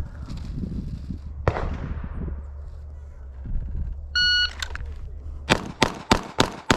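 Shot timer's start beep, about half a second long, followed a second later by a rapid string of handgun shots about a third of a second apart: a Bill drill fired from the draw. A single sharp crack also sounds about a second and a half in.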